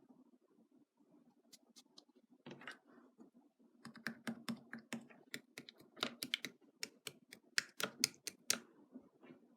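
Rapid, irregular clicks and taps, like typing on a keyboard, starting about two and a half seconds in and thickest in the middle stretch, over a faint steady low hum.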